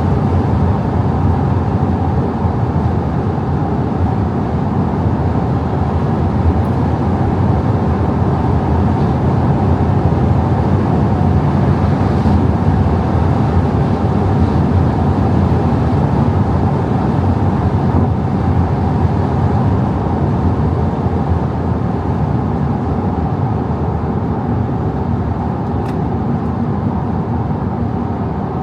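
Audi A5 50 TDI's 3.0 V6 diesel driving at speed: a steady drone of engine, tyres and wind, easing off slightly near the end.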